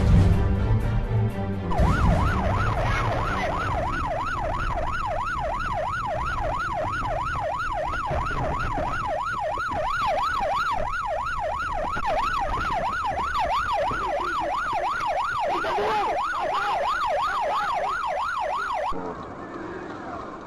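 Police car siren in a fast yelp, its pitch sweeping up and down about three times a second, cutting off suddenly near the end. Music plays for about the first two seconds before the siren starts.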